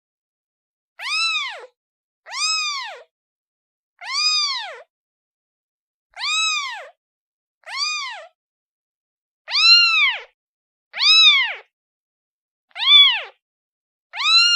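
A kitten meowing repeatedly, calling for its mother: about nine high-pitched meows, each rising then falling in pitch, roughly one every one and a half to two seconds.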